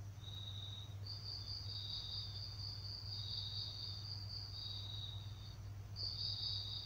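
Insects, likely crickets, trilling steadily with two high-pitched trills: one runs almost continuously, the other comes in bursts of about a second. A faint low hum lies under them.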